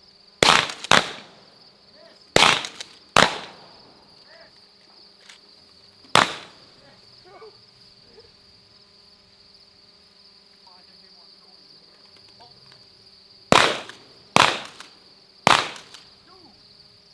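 Shotgun shots, eight in all: two quick pairs in the first few seconds, one at about six seconds, then three more a second or so apart near the end, each with a short echo. A steady high insect trill runs underneath.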